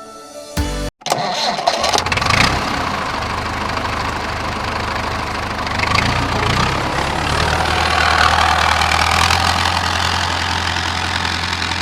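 Small engine of a DIY mini tractor starting up about a second in, then running steadily, settling into a steady low hum from about halfway through.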